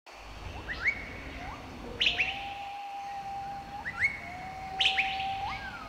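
Birds chirping: short upward-sweeping chirps every second or two, with long steady whistled notes that turn sharply upward at the end.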